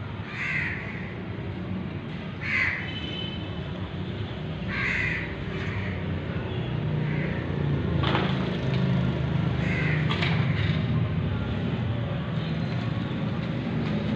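About seven short bird calls, a second or two apart, over a steady low rumble that grows louder about halfway through.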